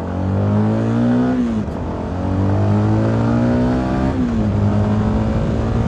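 CFMoto 300NK's single-cylinder engine pulling hard under acceleration. It rises in pitch, drops sharply at two upshifts, about a second and a half in and again about four seconds in, then holds a steady cruise.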